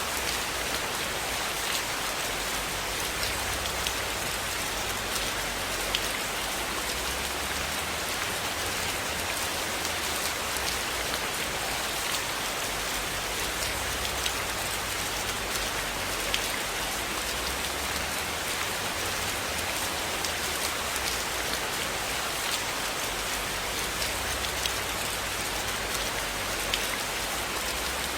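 Steady rain falling, an even hiss, with scattered light ticks of individual drops and a faint wavering low rumble underneath.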